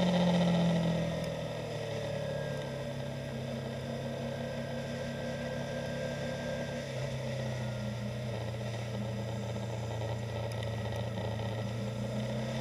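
A 2015 Yamaha YZF-R3's parallel-twin engine drops from higher revs to a lower, steady pitch about a second in as the bike slows. It then runs on at low revs.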